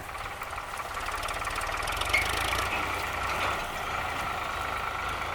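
Diesel tractor engine running steadily while driving a threshing machine, a continuous mechanical drone that rises a little about a second in.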